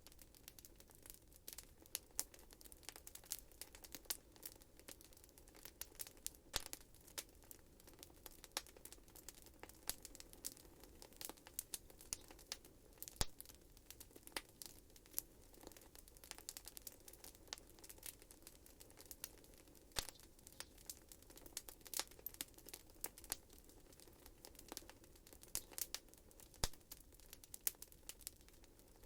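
Wood fire burning in a fireplace, crackling with many quick irregular pops and snaps over a faint low hiss.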